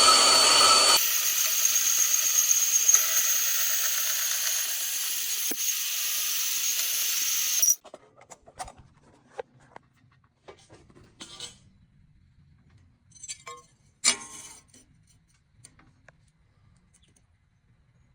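Bandsaw cutting wood, then running with a steady hiss and whine after the louder cutting noise drops about a second in; the saw sound stops abruptly a little under halfway through. After that, a few faint clicks and knocks of wood being handled.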